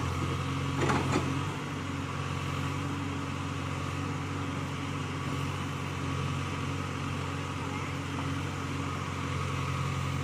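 Backhoe loader's diesel engine running steadily, with a couple of sharp clanks about a second in.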